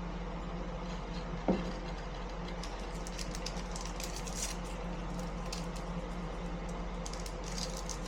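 A steady low hum with faint scattered clicks, and one short falling squeak about a second and a half in.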